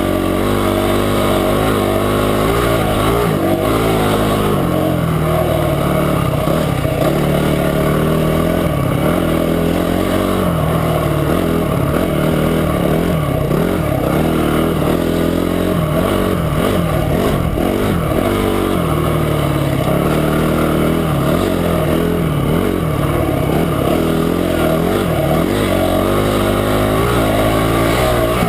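Motorcycle engine running under a rider's throttle, its pitch rising and falling continually as speed changes along the trail.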